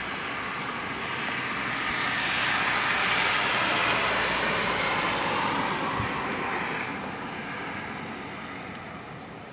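Rolling thunder: a long roar that swells for a few seconds, then dies away.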